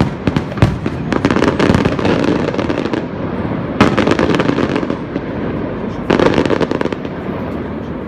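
Fireworks exploding: a rapid run of sharp bangs over a rumble in the first two seconds, then single loud bursts about four and six seconds in, the rumble fading toward the end.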